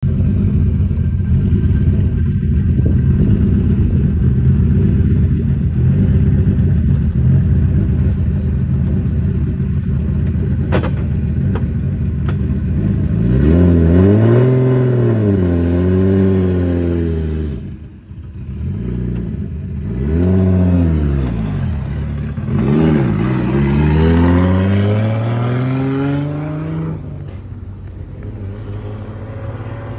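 Nissan S15 Silvia drift car's engine idling steadily, then revved hard from about halfway: repeated revs rising and falling, the last a long climbing rev that fades away near the end.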